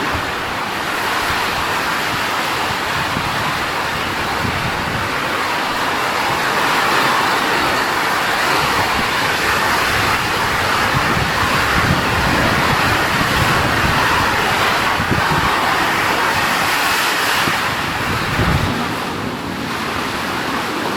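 Heavy rain and gusting wind of a rainstorm, a steady loud hiss of rain with gusts buffeting the microphone.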